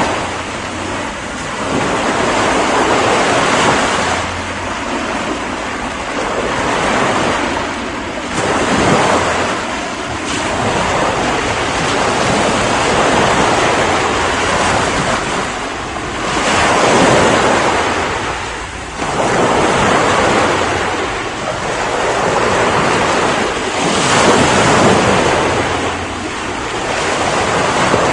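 Ocean waves breaking and washing on a shore, a continuous rush that swells and ebbs every few seconds.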